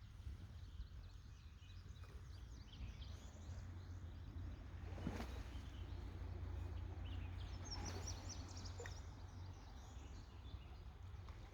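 Outdoor creek ambience: a steady low rumble with birds chirping, the chirps busiest about eight seconds in, and one brief knock or splash about five seconds in.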